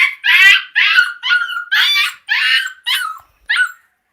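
A puppy yelping in distress: a rapid series of about eight short, high-pitched yelps that weaken and stop near the end. These are the cries of a young Kombai puppy caught in a fight with its littermates.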